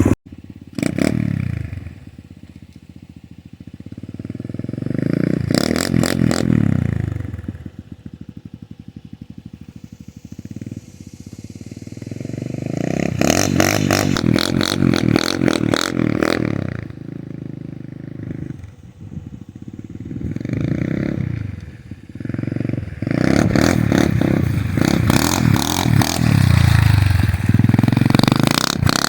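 SSR pit bike's small single-cylinder engine revving hard and dropping back again and again as the bike is ridden through mud, with clattering in the loudest stretches. The engine is loudest about five, thirteen and twenty-three seconds in.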